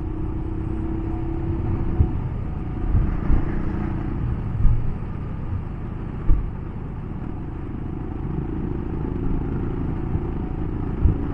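Royal Enfield Himalayan's single-cylinder engine running at a steady cruise, mixed with wind and road rumble at riding speed. Its note is distinct for about the first two seconds, then blends into the rumble, with a few brief thumps.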